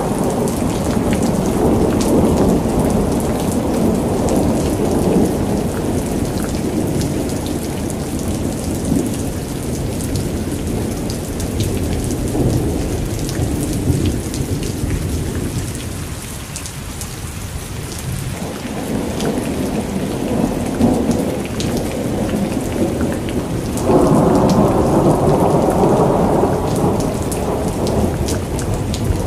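Heavy rain pattering on a car's windscreen and body, heard from inside the moving car, with many sharp drop ticks over a steady low rumble of the car on the wet road. The rumble fades briefly past the halfway mark and comes back suddenly louder near the end.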